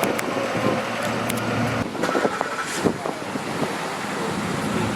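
Urban street traffic: cars passing, with a steady hum and a few short knocks.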